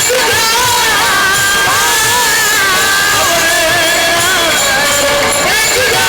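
A woman singing a Marathi devotional kirtan melody, holding long notes with ornamented turns and pitch bends, over instrumental accompaniment with a soft beat.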